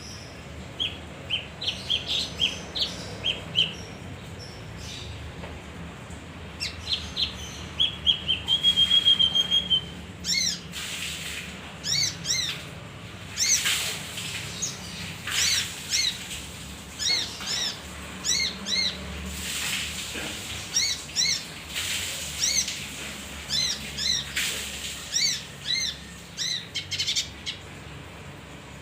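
Male kinoi songbird singing in repeated short, sharp chirping phrases, with a fast ringing trill about eight seconds in.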